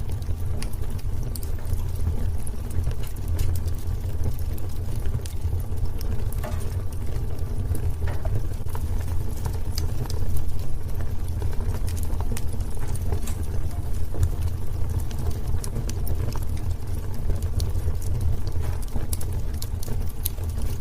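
Wood fire burning in a fireplace, crackling with many small, irregular sharp pops over a steady low rumble.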